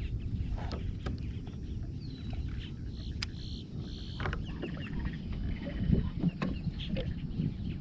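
Birds calling: several short high calls, one falling in pitch about two seconds in, over a steady low rumble and a few light clicks.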